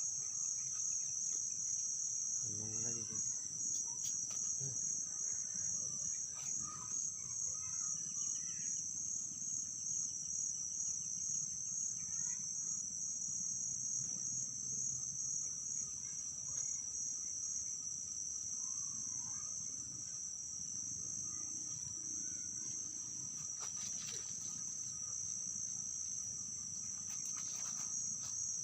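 Steady, high-pitched chorus of insects, a continuous shrill trill, with a few faint short chirps in the first few seconds.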